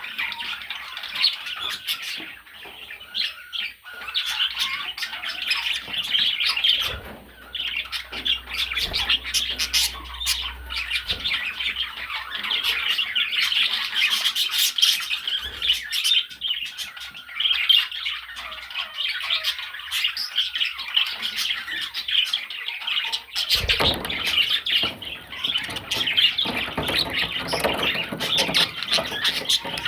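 Budgerigar chattering and warbling: a continuous stream of quick chirps and squawks.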